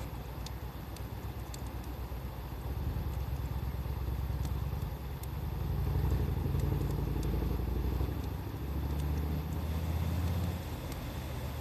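A low engine-like rumble, louder in the middle, then cutting off abruptly near the end. Over it, a wood fire crackles with scattered sharp pops.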